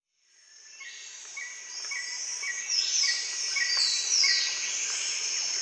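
Outdoor ambience of birds and insects fading in: a dense high insect hiss, a bird repeating a short chirp about twice a second, and a few falling high-pitched calls.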